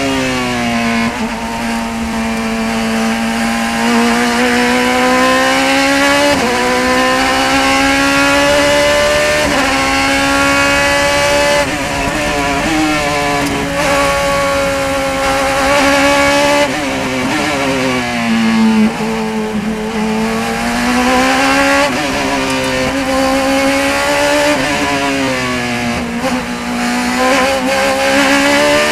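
Race car engine under hard acceleration around a circuit, its pitch climbing and dropping back in steps at each gear change, then falling away and rising again for a slow corner a little past the middle.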